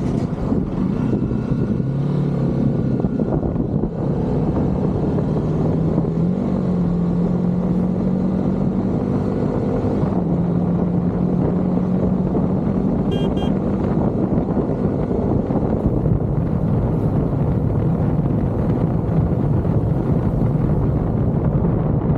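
KTM motorcycle engine running under way, its note holding at one pitch, then stepping to another several times.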